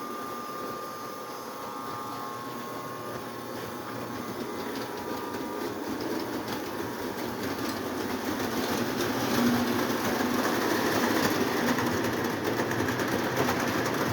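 Two Lionel O27 electric toy trains running on the layout's track, a steady mechanical whir and rumble. It grows louder about halfway through and stays louder.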